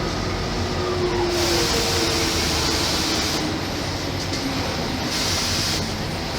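Mercedes-Benz O-500MA articulated bus with its Bluetec 5 diesel engine and ZF automatic gearbox, running under way with a steady rumble. About a second in, a whine falls in pitch, and a hiss comes and goes twice.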